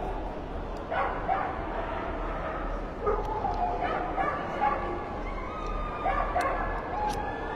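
A dog yipping and whining in a string of short, high, gliding calls, several a second at times.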